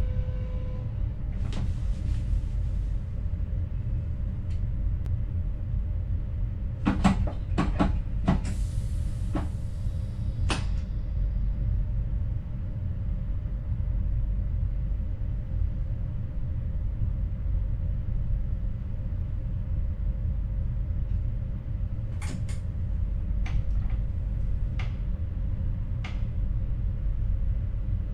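Steady low running rumble inside a moving train's cab, with a faint steady hum. Two groups of sharp clicks and knocks, like wheels passing over rail joints or points, come about seven and twenty-two seconds in, along with two short hisses.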